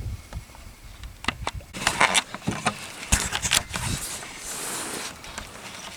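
A run of sharp knocks, clicks and scrapes of gear being handled on a boat, with a brief hiss near the middle.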